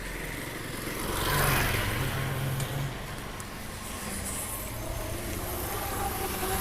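A motor vehicle passing on the road, its rush swelling to a peak about a second and a half in, over a steady low engine drone.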